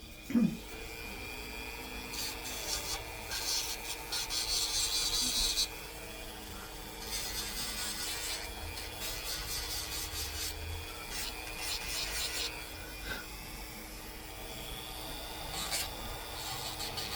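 A Quaker parrot's beak being filed down to smooth its ridges, rasping in stretches of one to three seconds with short breaks between. A short sharp sound comes about half a second in.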